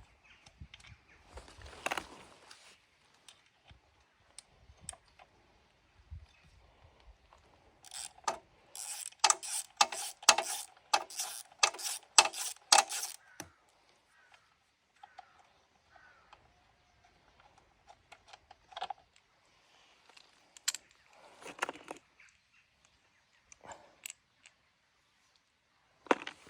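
Ratchet wrench clicking in bursts as bolts on the mini moto's chain cover are undone, with scattered clinks and knocks of metal tools and parts; the densest run of clicks falls around the middle.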